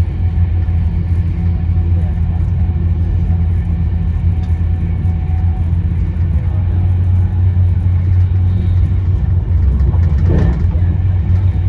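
Steady low rumble of a moving passenger train heard from inside the carriage, with a short higher sound about ten seconds in.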